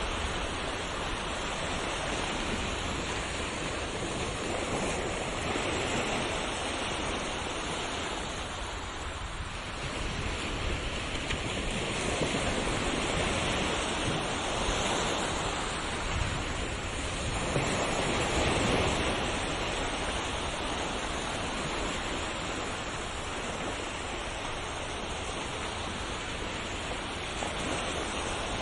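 Ocean waves breaking and washing in steadily, swelling and easing every few seconds, loudest a little past the middle.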